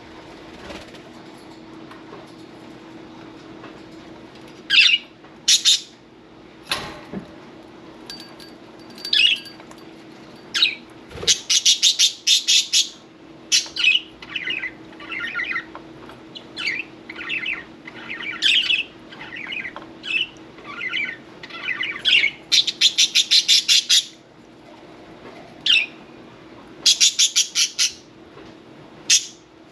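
Budgerigars chirping and calling, with several fast runs of sharp repeated chirps.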